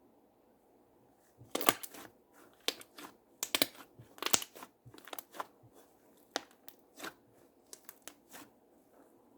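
Slime being squeezed and pressed by hand, giving a run of sharp crackling pops and clicks. It starts about a second and a half in, is densest for the next three seconds, then thins to scattered pops.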